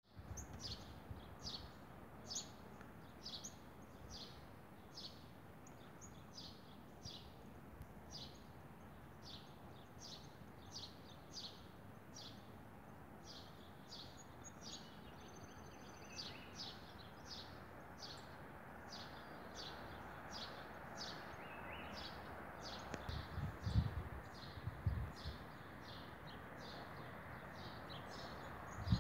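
A bird chirping over and over, about two high chirps a second, over faint steady outdoor background noise. A few low thumps come near the end.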